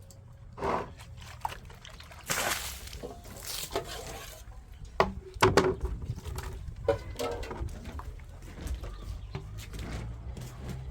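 Liquid pouring and sloshing in two stretches of about a second each, with scattered knocks and clatter in between.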